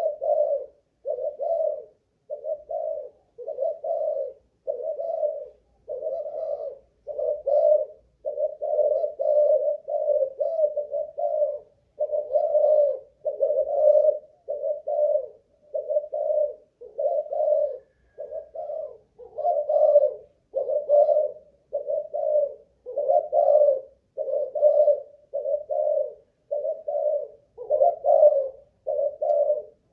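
Spotted dove of the Malaysian cooing strain (cu gáy) cooing over and over, short low coos coming about once a second without a break.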